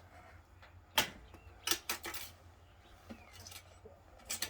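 Wire being cut and handled: a handful of sharp metallic clicks and snips, the loudest about a second in.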